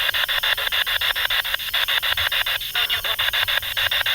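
Spirit box sweeping through radio stations: a steady, rapidly chopped static hiss at about nine pulses a second, in which the investigators listen for words.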